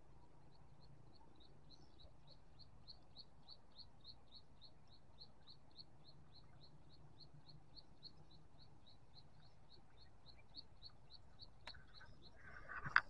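A bird repeating one short high note over and over, about three times a second, faint and steady. Near the end comes a brief rustle with a sharp knock, the loudest sound.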